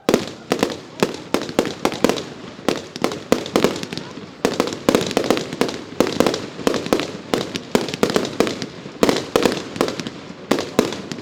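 Professional fireworks going off in a rapid barrage: sharp bangs several times a second, starting abruptly and keeping up without a break.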